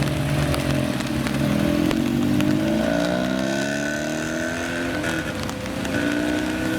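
Classic Japanese car engine accelerating: its note climbs steadily, drops with a gear change about five and a half seconds in, then climbs again.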